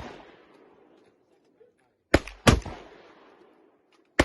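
Gunshots at a shooting range: two shots in quick succession about two seconds in and another right at the end, each followed by a long fading echo.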